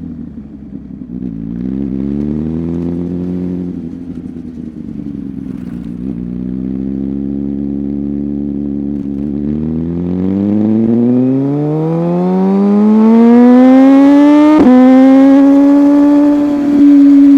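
Sportbike engine under way: the note drops, rises and dips, then climbs steadily through the revs for about four seconds to a loud, high, steady pitch, broken twice late on by a sharp click with a brief dip.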